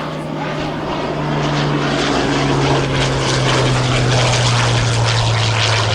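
Hawker Hurricane Mk.IV's Rolls-Royce Merlin V12 engine and propeller in a flypast. The note grows louder and drops steadily in pitch as the aircraft passes.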